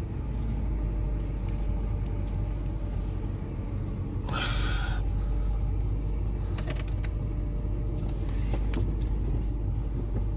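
Range Rover's 5.0-litre V8 engine running at low speed, a steady low rumble heard from inside the cabin. A short rushing noise comes about four seconds in, and a few faint clicks follow later.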